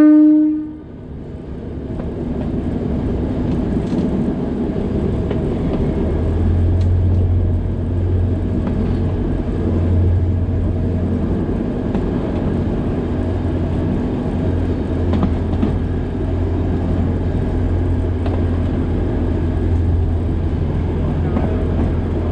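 A train horn blast cuts off about half a second in. The Alishan Forest Railway train then runs on along its narrow-gauge track with a steady low drone and a few faint clicks.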